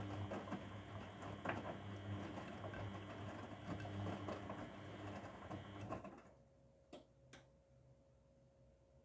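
Grundig washing machine's drum turning during the wash, the motor humming under the patter of tumbling laundry, until it stops about six seconds in. Then two short clicks and a faint steady hum while the drum rests.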